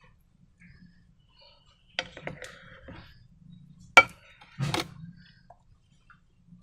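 A few sharp clicks and knocks of small hard objects being handled, the sharpest and loudest about four seconds in, followed at once by a duller knock.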